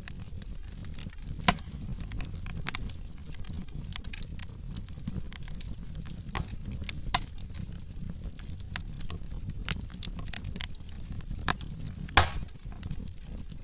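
Wood fire burning in a fireplace: steady low rumble of the flames with irregular sharp crackles and pops from the burning logs, the loudest pops about a second and a half in and near the end.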